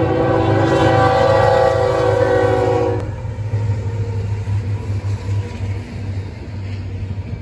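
Diesel freight locomotive's air horn sounding a loud, steady blast of several tones that cuts off about three seconds in, over a low steady rumble. The locomotives and double-stack container cars rumble on past after the horn stops.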